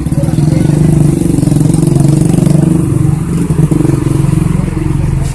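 A vehicle engine running close by, loud and steady with a fast pulsing beat.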